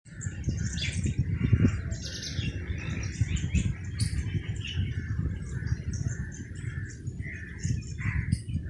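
Small birds chirping repeatedly over a low, uneven rumble.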